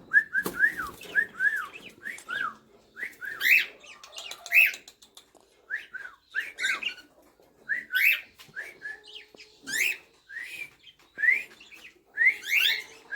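Budgerigars chirping: short, sharp, up-and-down chirps, one after another in uneven clusters.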